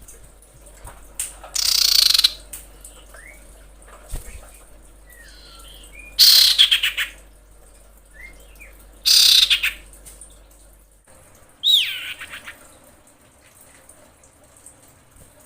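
Common iora, a female calling for males: four loud, harsh, rattling calls, each under a second long and a few seconds apart, the last starting with a falling whistle, with soft short chirps in between.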